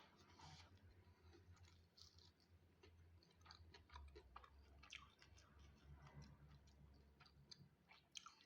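Faint chewing of food close to the microphone, with irregular wet mouth clicks and smacks, over a low steady hum.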